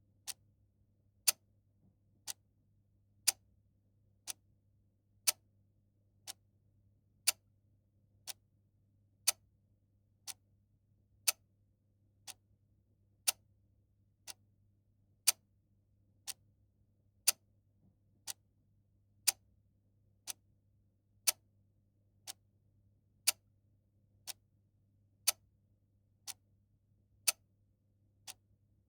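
Mechanical clock ticking steadily, one tick a second, the ticks alternating louder and softer in a tick-tock pattern.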